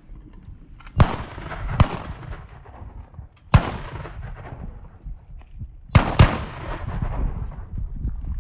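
Shotgun volley at waterfowl: five shots, two about a second apart, one alone, then a quick pair, each with an echoing tail, over wind rumble.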